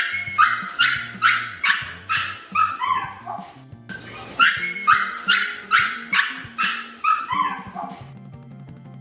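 Pug yipping: a quick run of about eight high, sharp yips, the last few dropping in pitch, played twice over. Music runs underneath.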